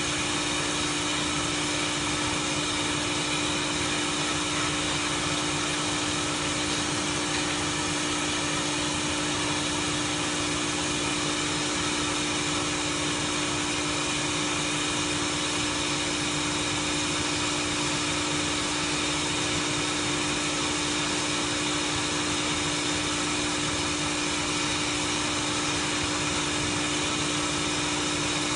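Automatic pole welding machine running: a steady, unchanging hum with a strong low tone over an even hiss.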